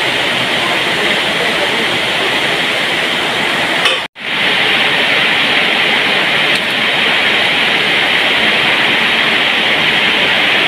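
Heavy rain falling, a steady loud hiss that breaks off for an instant about four seconds in.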